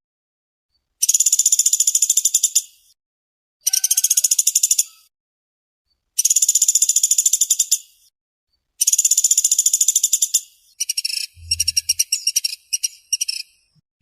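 Woodpecker (pelatuk beras) giving fast, tight rattling trills, each about a second and a half long and repeated every couple of seconds. Near the end the calls break into a choppier string of short rattles.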